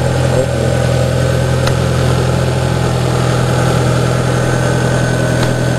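Car engine idling steadily, an even low drone with no change in speed.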